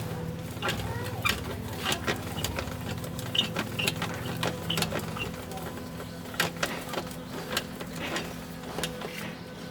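A machine running with a steady hum, with irregular clicks and knocks over it, a few to several a second.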